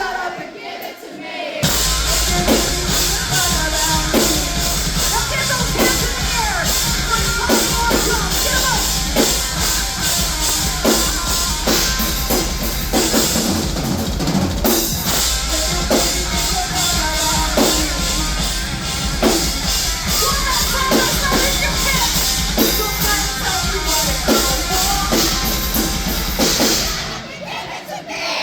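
Live rock band playing loud, with the drum kit driving a steady beat under bass and guitars. The band drops out briefly just after the start, comes back in, and stops near the end.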